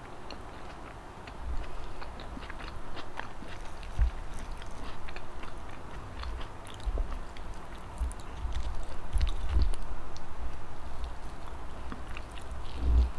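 Close-miked chewing and biting of a mouthful of rice and fried siomai eaten by hand, with many small wet smacking clicks and irregular soft low thumps.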